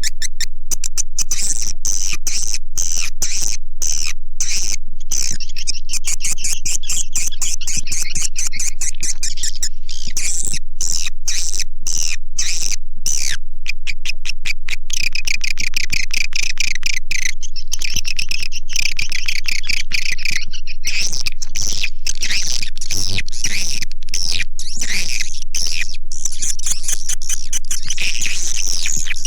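Swiftlet call recording: a dense, unbroken chorus of fast, high chirps and twittering trills from edible-nest swiftlets, the kind of lure sound played in swiftlet houses to call the birds in.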